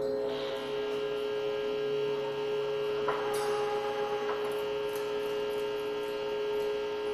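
A sustained drone from live experimental electronics: several steady tones held together, with a few short clicks about halfway through.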